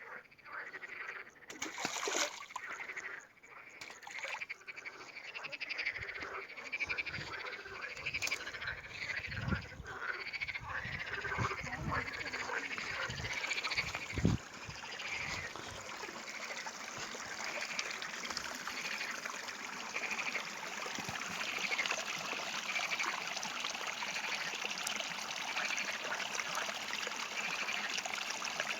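A chorus of many short, repeated animal calls over a steady hiss of running water, with a few low thumps in the middle.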